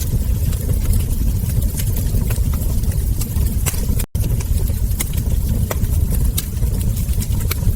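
Wood fire crackling, with frequent sharp pops and snaps over a steady low rumble of burning logs. The sound cuts out for an instant about four seconds in.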